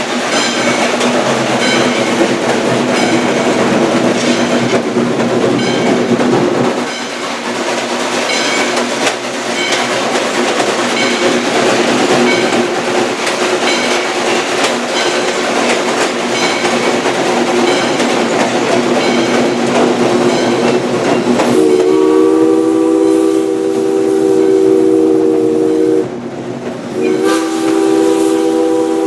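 Steam train running, wheels clicking over the rail joints, then about three-quarters of the way through Mikado #40's steam whistle sounds a long chord of several notes, breaks off for about a second, and blows again.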